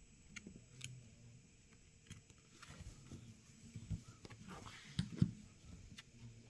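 Faint clicks and taps of metal tweezers working a small bracket loose from a smartphone's internals, with light handling knocks; the sharpest two come close together a little after five seconds in.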